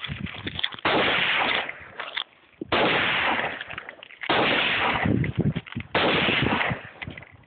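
AR-15 rifle fired four times, single shots about a second and a half apart, each followed by a long echoing tail.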